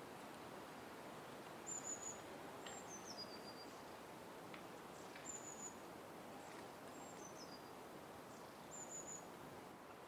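Small songbird giving high, thin calls: about five short phrases, some a single flat note and two that step down in pitch, over steady background noise.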